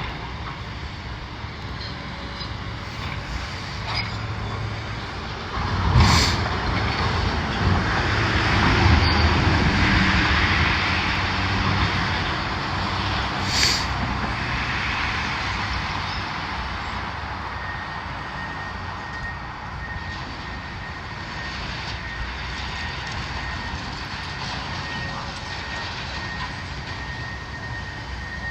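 Diesel front loader working demolition debris: a steady engine rumble that swells for several seconds. Two sharp bangs of rubble or the bucket are heard, at about 6 seconds and 13 seconds in, and a faint steady whine is heard in the second half.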